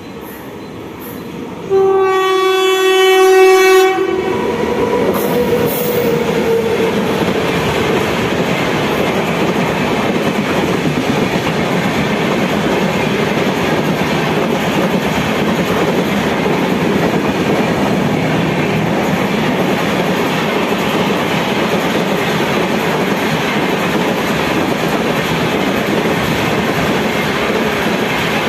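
An Indian Railways express, hauled by an electric locomotive, sounds one long horn blast of about two seconds as it approaches. Then it runs through the station at speed, its coaches passing with a steady loud rumble and wheel clatter on the rails.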